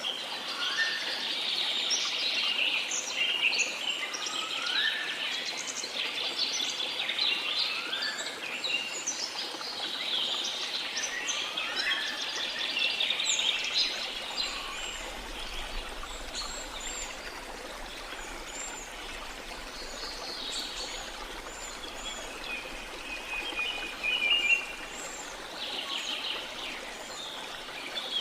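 Rain forest ambience: many birds calling and chirping over the steady rush of a flowing river. The birdsong is densest in the first half and thins out after about halfway.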